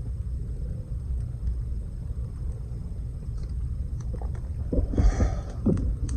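Campfire burning: a steady low rumble with a few faint crackles, and a brief louder burst of sound about five seconds in.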